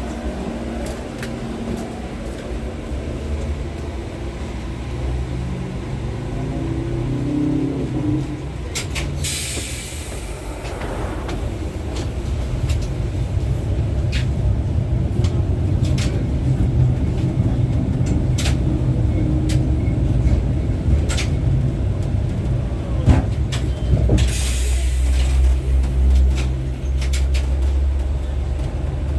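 Inside an LVS-86K articulated tram running between stops: a steady low rumble of motors and wheels on the rails, with scattered clicks, and two short bursts of hissing, about a third of the way in and again near the end.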